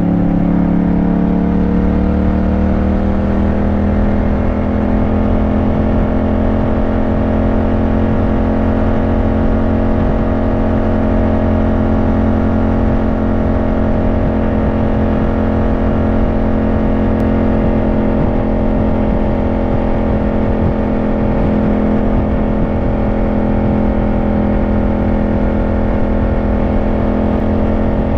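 Yamaha motorcycle engine heard from on the bike. Its revs rise over the first few seconds, then hold steady at cruising speed over a low, noisy rumble.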